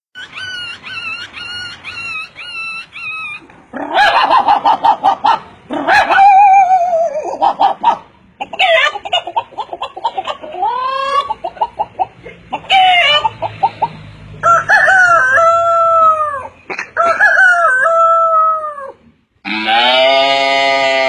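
A run of different farm animal and bird calls, one after another: short repeated chirps at first, then calls including a rooster crowing and hens clucking. A bleating call begins near the end.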